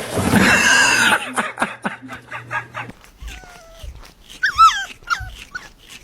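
A dog whining and yelping in short cries that waver in pitch, the loudest just before five seconds in, after a harsh noisy burst in the first second.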